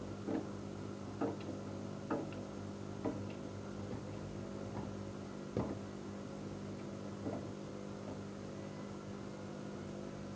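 Electrolux washing machine running, with a steady motor hum and soft irregular thumps about once a second that thin out after about six seconds.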